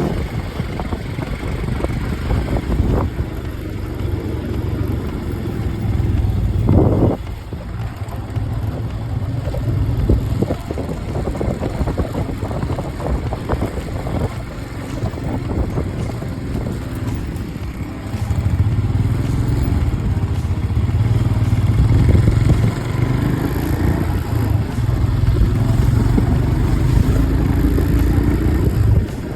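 Motorcycle engine running under way, with rushing air noise; the engine note rises in the last few seconds.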